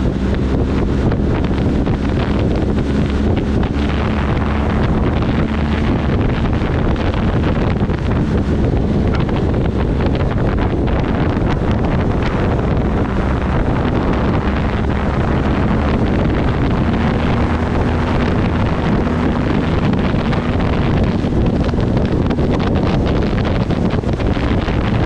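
Wind buffeting the microphone on a moving motorcycle, with the engine's steady drone underneath, its pitch shifting slightly.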